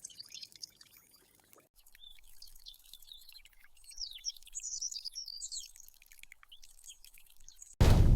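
Busy high chirping and twittering, many short quick notes rising and falling. Near the end a loud low rumble starts suddenly.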